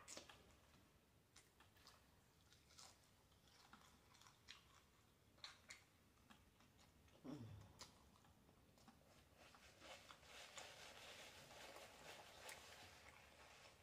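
Faint close-up chewing of crispy fried chicken, with scattered small crunches and wet mouth clicks; the crunching thickens into a steady crackle about ten seconds in.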